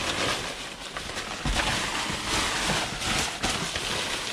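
Rustling and light knocks of paper and cardboard being handled and shifted during rummaging through a dumpster.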